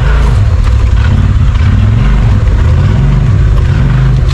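Side-by-side UTV engine running close to the microphone, its low note rising and falling as the throttle changes.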